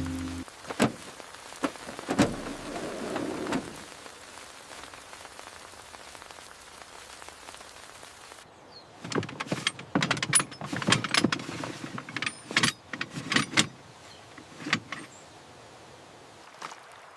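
Steady rain falling, with a few sharp clicks in the first few seconds and a dense run of knocks and clicks about nine to fourteen seconds in.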